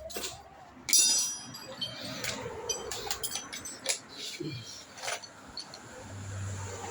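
Metal tools and parts clinking and knocking as they are handled, with one loud metallic clink about a second in. A low hum comes in near the end.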